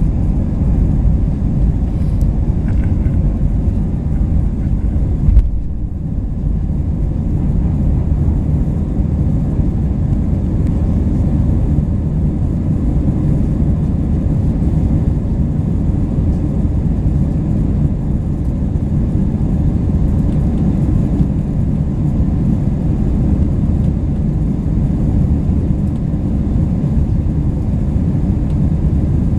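Airbus A320 cabin during takeoff: the jet engines and airframe make a loud, steady low rumble. A single brief thump about five seconds in.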